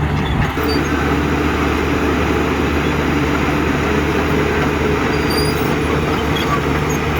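Heavy diesel engine of earthmoving machinery running steadily, its note shifting slightly about half a second in.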